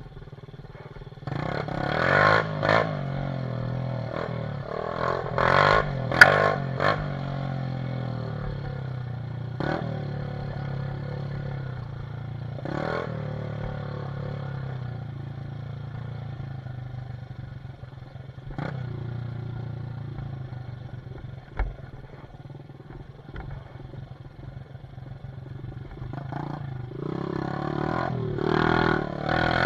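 Dirt bike engine running, revved hard in several short bursts early on and again rising near the end, idling or running steadily at lower level in between, with a few sharp knocks and clatter.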